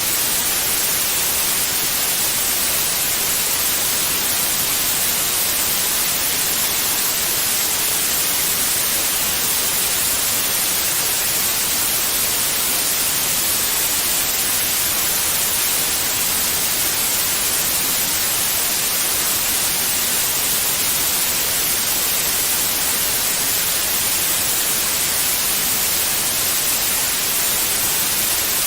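Steady white noise: an even, unchanging hiss with no lines or events, strongest in the upper treble, played as a soothing sound for babies.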